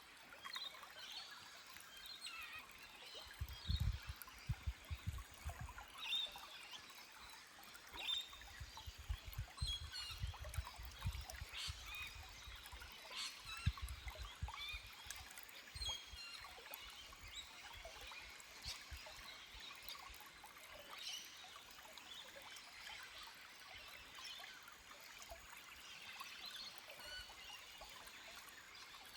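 Small forest stream trickling and gurgling over rocks, with birds chirping and calling throughout. A few low rumbles come in the first half.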